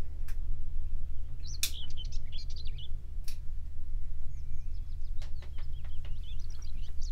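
Small birds chirping and twittering in short runs, about a second and a half in and again from about five seconds on, over a steady low hum.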